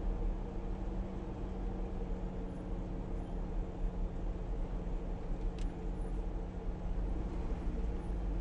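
Jeep engine running steadily with an even, unchanging low drone. There is one short tick a little past halfway through.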